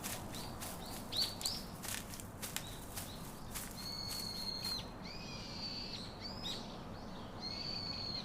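Wild birds calling outdoors: quick rising chirps in the first half, then longer steady whistled notes in the second half, over faint outdoor background noise.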